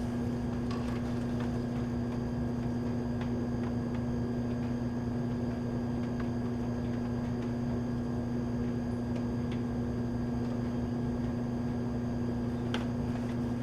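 Electric motor of a machine-shop machine tool running steadily with a low hum and a few faint ticks.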